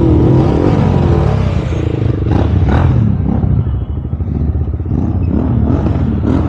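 Motorcycle engines running, their pitch wavering up and down, with two sharp clacks a little after two seconds in.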